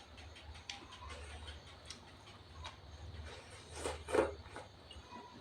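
Eating sounds: scattered light clicks and taps, with a louder stretch of chewing and mouth noise about four seconds in.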